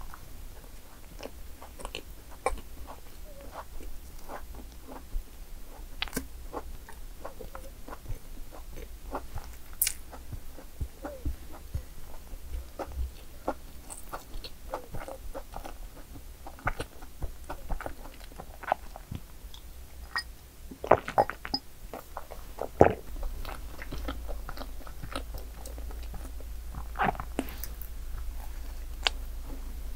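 Close-miked eating of madeleine desserts: biting and chewing, with many scattered short crunchy clicks and a few louder bites.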